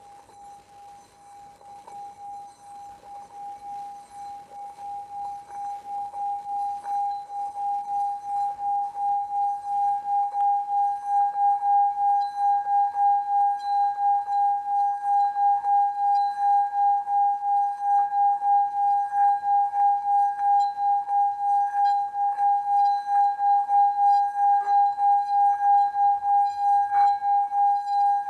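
Singing bowl rubbed around its rim, sounding one sustained ringing tone that pulses in about two swells a second. It builds in loudness over the first ten seconds or so, and a higher overtone joins about ten seconds in.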